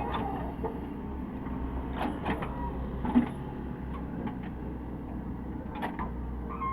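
Caterpillar 307E2 excavator's diesel engine running steadily, with scattered sharp knocks and clanks over it, the loudest about three seconds in.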